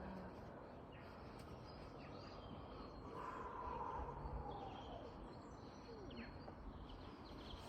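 Faint steady background noise with a few faint bird-like chirps.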